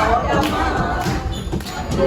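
Several voices singing together over a steady low rumble.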